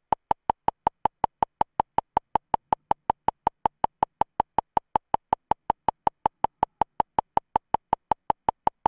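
Rapid electronic beeping: identical short, sharp-edged beeps at one fixed pitch, repeating evenly about four to five times a second.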